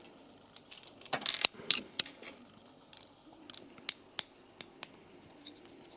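Plastic toy building bricks clicking and snapping together as pieces are handled and pressed into place, with a dense run of sharp clicks about a second in and scattered lighter clicks after.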